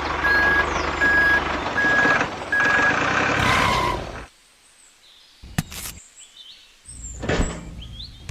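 Vehicle reversing alarm beeping at an even pace, about one short beep every 0.6 seconds, over a running engine. The beeps stop about two and a half seconds in and the engine noise cuts off abruptly about four seconds in. A few sharp clicks and a thud follow, with faint high chirps.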